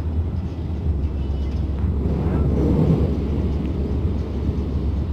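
Steady low rumble of a motor vehicle, swelling about two and a half seconds in and then easing.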